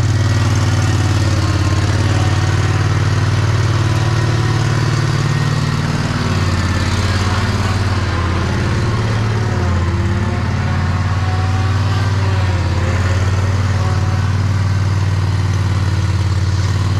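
An engine running steadily close by, its speed wavering up and down for a few seconds in the middle.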